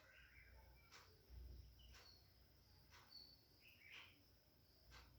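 Faint bird chirps, a few short calls, over near silence, with soft clicks about once a second.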